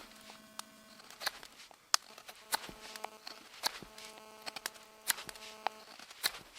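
Wood fire crackling, with irregular sharp pops a few times a second and faint steady whistling tones underneath.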